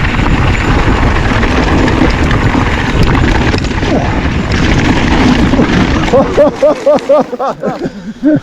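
Wind rushing over a GoPro microphone on a moving mountain bike. About six seconds in it drops away and a quick run of short, rising-and-falling voice-like sounds follows, several a second.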